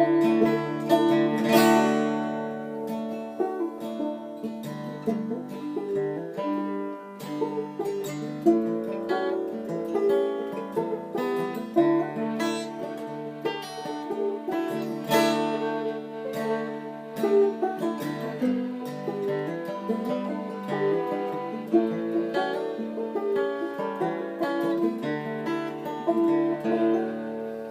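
Instrumental break in an acoustic folk song: a banjo picking a lead over acoustic guitar, with no singing.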